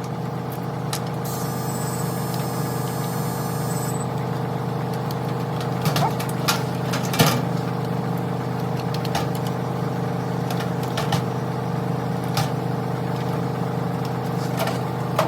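Steady low machine hum, with scattered sharp clicks and small knocks over it.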